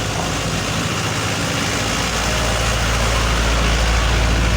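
A vehicle engine running steadily, growing louder about two seconds in.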